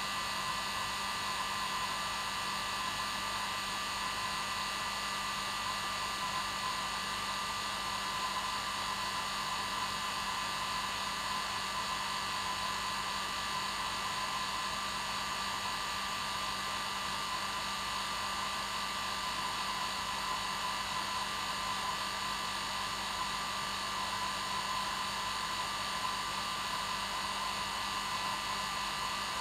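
Hair dryer running steadily: an even airflow rush with a steady motor hum, no change in speed.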